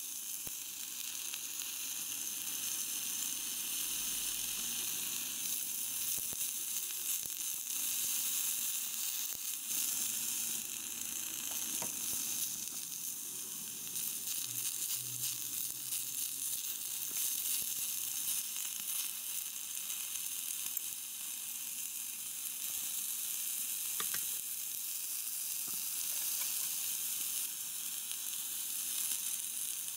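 Shrimp and chopped vegetables frying with a steady sizzle in a miniature ceramic saucepan while being stirred, with a few faint clicks of the tiny utensil against the pan.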